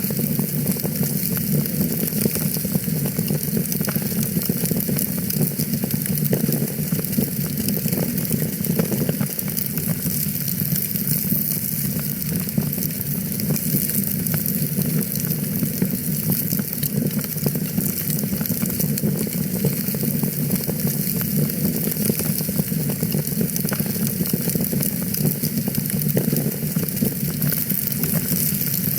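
Fireplace fire crackling steadily: a constant hiss with many small pops scattered throughout.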